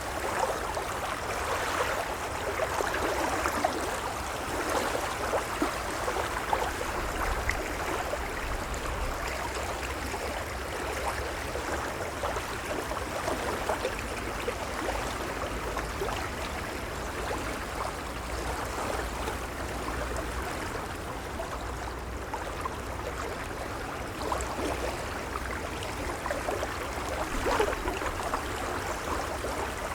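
Gentle waves lapping and washing against a shore: a steady watery wash with small splashes and gurgles over a constant low rumble.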